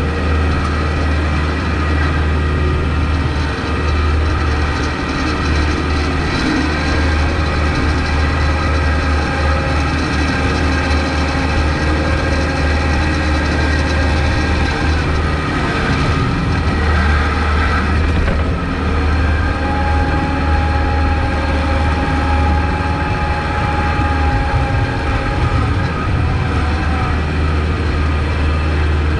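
Kubota MX5200 tractor's diesel engine running steadily under load while plowing snow, a strong low drone. A thin whine comes in a little past the middle and fades before the end.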